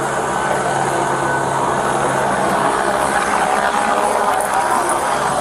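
Police helicopter overhead, its rotor and engine running in a steady loud drone.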